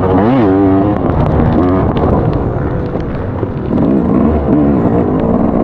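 Motocross bike engine revving hard and backing off while racing, its pitch swinging quickly up and down, with a few short sharp ticks.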